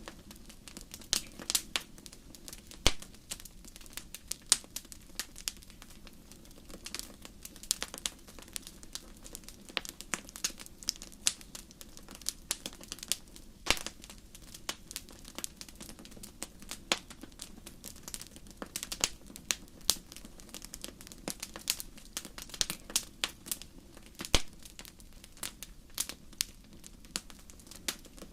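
Wood fire crackling in a fireplace: a steady stream of irregular sharp pops and snaps over a low, even rumble of the burning fire.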